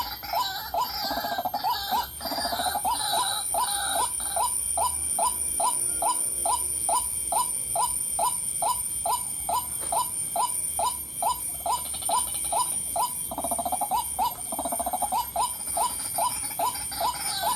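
White-breasted waterhen call: a long, even series of short falling 'kwak' notes, about three a second, with bubbling, gabbling stretches at the start and again near the end.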